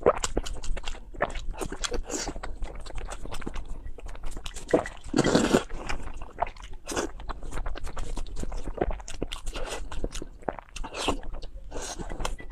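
Close-miked eating: someone biting and chewing crunchy food, with many quick irregular crackling crunches and a longer, louder crunch about five seconds in.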